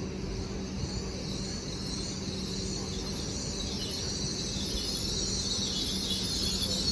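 Great Western Railway Intercity Express Train running into the platform: a steady low hum under a high-pitched hiss and squeal that grows louder toward the end.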